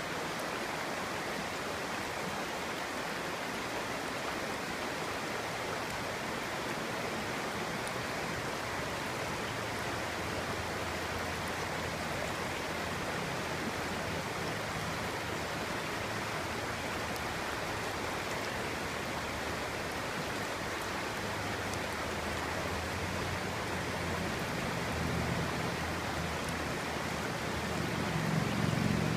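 Clear shallow stream flowing and babbling over stones, a steady rush of water with a little more low rumble toward the end.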